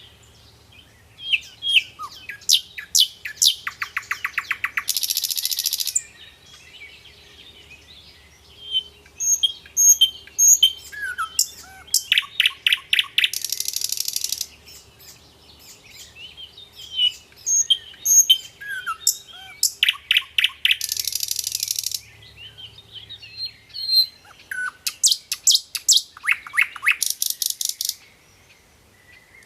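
A songbird singing repeated loud phrases of rapid chirps and fast trills, each ending in a harsh, buzzy rasp about a second long. The phrase comes four times, about every eight seconds, with softer twittering in between.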